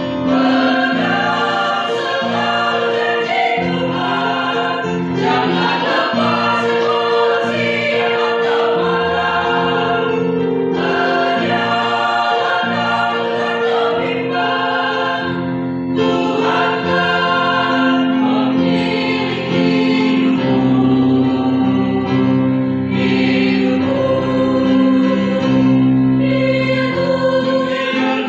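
A church choir singing a hymn in Indonesian in several-part harmony, holding long chords and moving phrase by phrase.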